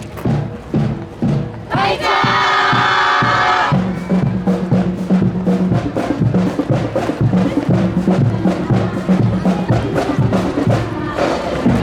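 Marching band playing in a parade: drum strikes, then a loud held brass chord about two seconds in, followed by low brass and drums in a steady rhythm.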